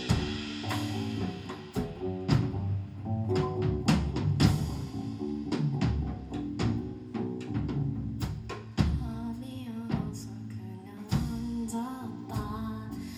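Live band music with steady drum-kit hits and bass under a sung melody.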